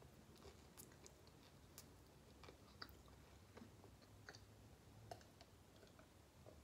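Faint close-up chewing and wet mouth clicks of a person eating, coming as scattered irregular clicks. Over the last couple of seconds she drinks from a plastic cup.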